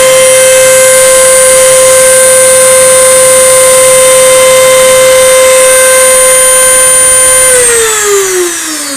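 CNC router spindle running with a steady high whine, then switched off about seven and a half seconds in, its pitch falling as it spins down at the end of a cutting pass in 5 mm plywood.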